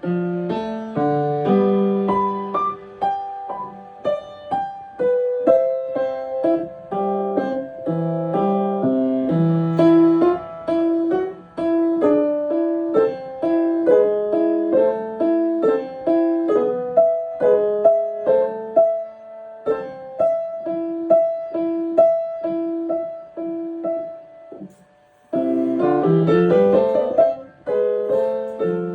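Solo piano playing a melody over a simple accompaniment at a steady practice pace. It breaks off for about a second near the end, then starts again with rising runs.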